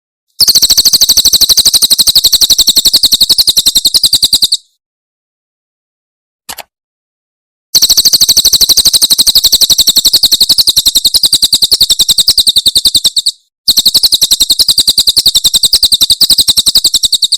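Cililin bird singing its rapid-fire 'tembakan' trill, a very fast stream of short, high, evenly spaced notes. It comes in three long bursts: the first of about four seconds, then two longer ones split by a brief gap, with a short chirp between the first and second.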